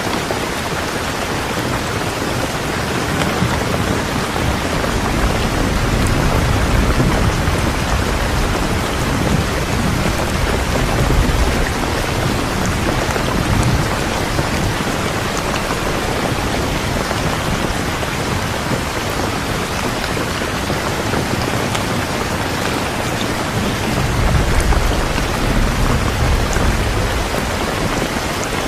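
Steady heavy rain hissing down, with low rumbles of distant thunder swelling and fading twice, once in the first half and again near the end.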